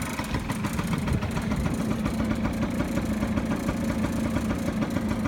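TD01 engine idling steadily with an even, regular firing beat after a start-up check.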